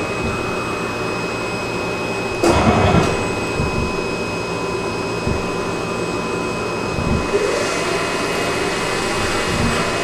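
CNC lathe running: a steady mechanical hum with several thin, high whining tones. About two and a half seconds in there is a sudden louder burst of noise lasting about half a second, followed by a few dull knocks.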